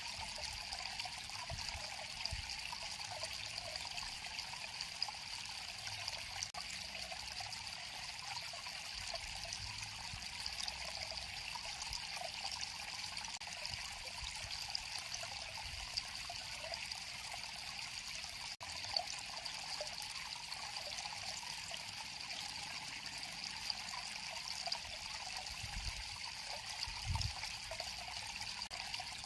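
River water flowing and trickling steadily, an even, unbroken rush of water.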